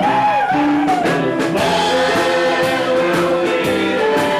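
Live band music with singing: held vocal notes over the band.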